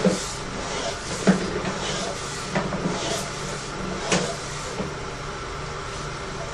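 Sewer inspection camera and its push cable being fed back into the drain line: scattered knocks and clunks, about four of them, over a steady low hum.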